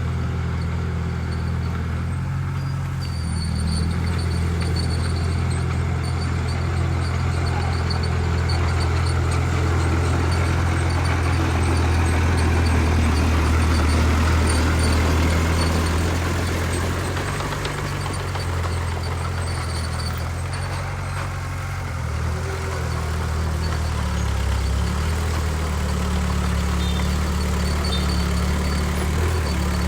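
Heavy diesel engine of earthmoving machinery running steadily with a low, even drone. It grows a little louder for several seconds midway, eases off a few seconds later, then settles.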